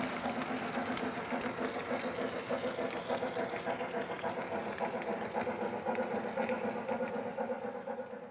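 Lionel O gauge model trains running on the layout: a steady electric motor hum with many small clicks over it.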